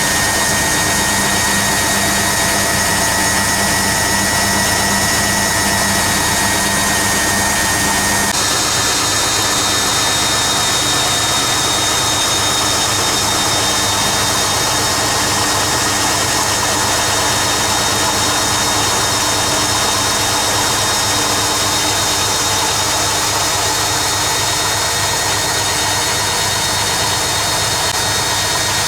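Hoover Keymatic A3112 twin-tub-era front-loader running its 500rpm interim spin: the motor and stainless steel drum spinning with a steady mechanical whirr. About eight seconds in, the pitch shifts: a low hum and a middle whine drop away and a higher whine takes over.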